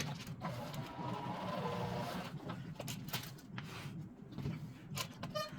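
Small mechanical whirring with rattling and clicking as MIG welding wire is respooled, with a brief high whine near the end.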